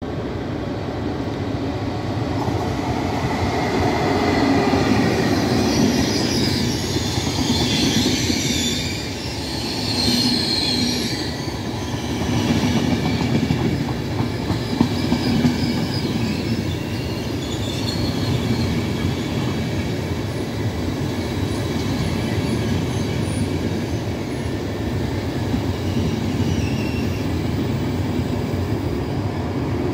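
Trenitalia Intercity train running along the platform track, its carriages rolling past close by with a steady heavy rumble. A high-pitched wheel squeal rides over the rumble, strongest from about four to twelve seconds in and fading later.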